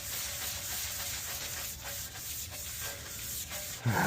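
Pressure washer spraying steadily against the skid steer's panel to strip treated concrete residue, a steady hiss with a faint whine under it. A loud voice-like sound breaks in near the end.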